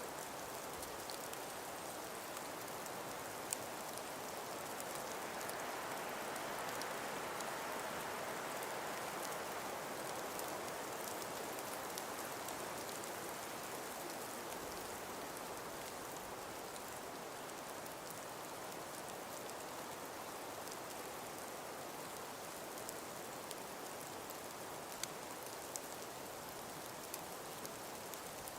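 A calm winter breeze as a steady rushing noise that swells for several seconds and eases again, with light scattered ticks over it.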